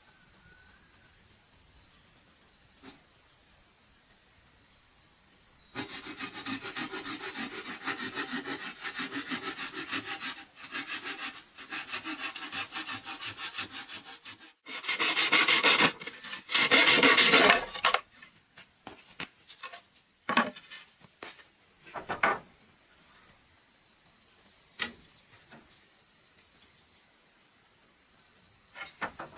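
Wood being worked with a hand tool: about nine seconds of fast, rhythmic scraping strokes, then two louder long strokes, then a few scattered knocks. A steady high insect drone runs underneath.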